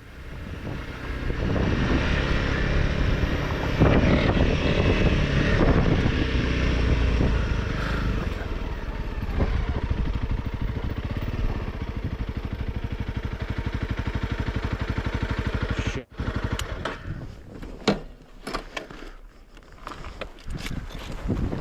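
Single-cylinder dual-sport motorcycle engine running under way on a trail, fading in over the first second or so. About sixteen seconds in it cuts off abruptly, and a quieter stretch of irregular knocks and rattles follows.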